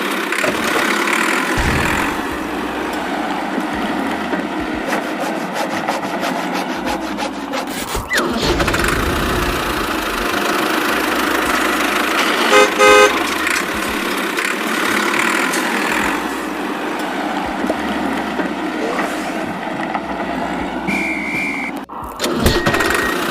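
Vehicle engine running steadily, with a short run of horn toots about halfway through.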